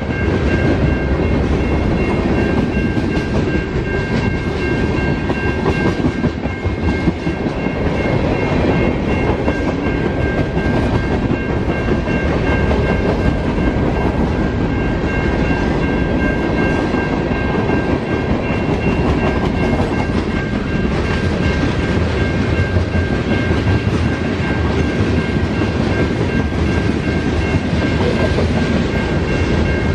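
Freight train of mixed boxcars and tank cars rolling past at speed: a steady rumble with the clickety-clack of its wheels over the rail joints. Over it, a high steady ringing from the grade crossing's warning bell, fainter in the middle and stronger again near the end.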